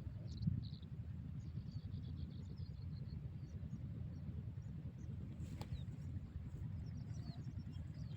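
Birds chirping in quick, short high calls, most of them in the first three seconds, over a steady low rumble.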